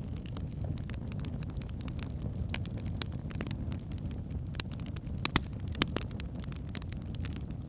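Wood fire burning in a fireplace: a steady low rumble of flames with scattered sharp crackles and pops, the loudest pops a little past halfway.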